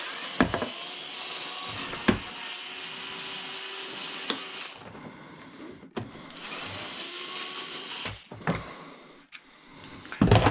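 Cordless drill running under load in two stretches, the first about five seconds long and the second about two seconds, with a few sharp knocks in between and after.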